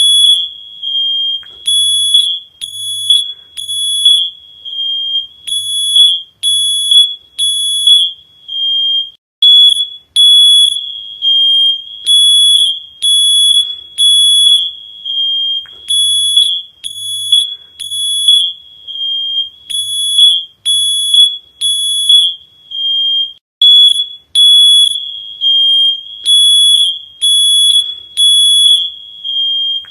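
Smoke alarm sounding: a loud, high-pitched electronic beep repeating roughly once a second, with short pauses between groups of beeps.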